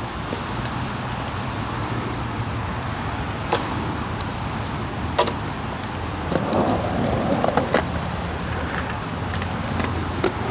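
Steady hum of road traffic in the background, with a few sharp clicks spread through it.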